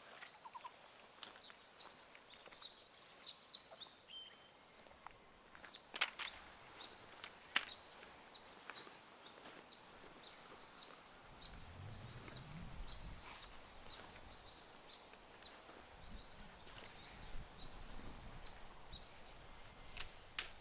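Faint open-air campsite ambience: a bird repeats a short high chirp, a little more than once a second, through the middle of the stretch. Two sharp clicks come near the start of the chirping, and a low rumble comes and goes.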